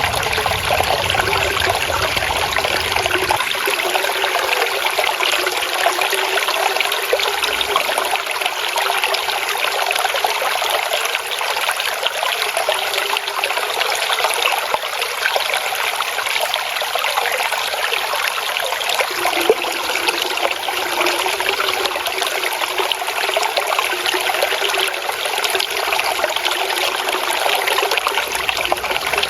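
Water flowing and trickling over rocks in a small stream, a steady babbling splash without let-up.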